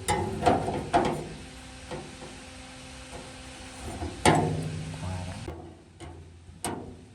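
A series of sharp knocks and clanks, the loudest about four seconds in, over a steady low hum.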